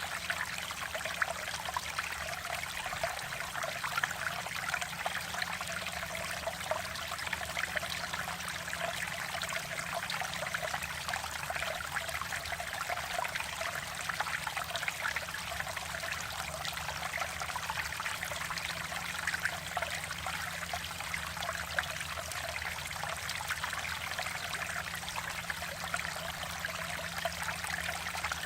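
Mountain valley stream flowing over rocks, a steady babbling and trickling of water with no pauses.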